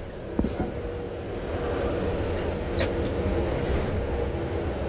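Delivery truck running in traffic, heard from inside the cab: a steady engine and road rumble with a faint held tone over it and a couple of small clicks.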